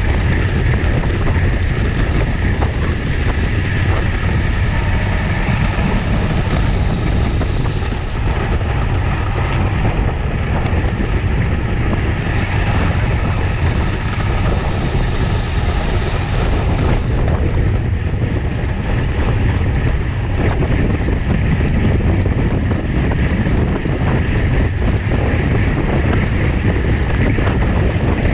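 Steady, loud wind rushing over the microphone of a camera on a road bike at race speed.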